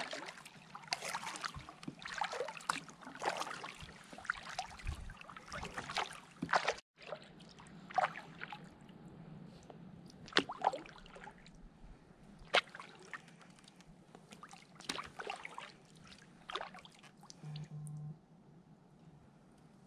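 Kayak paddle strokes dipping and splashing in creek water, with water dripping off the blades. The splashes come close together at first, then more slowly, about one every two seconds, after a brief cutout about seven seconds in.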